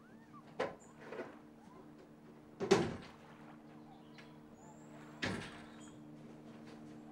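Four knocks or bumps, the loudest about a third of the way in, over a steady low hum.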